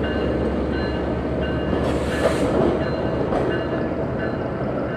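Freight train of tank cars rolling slowly past, a steady rumble and clatter of wheels on rail with faint, intermittent ringing tones. A brief hiss comes about two seconds in.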